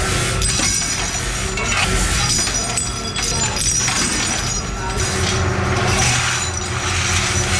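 Workshop machinery running with a steady low hum, and metal parts clinking and rattling throughout.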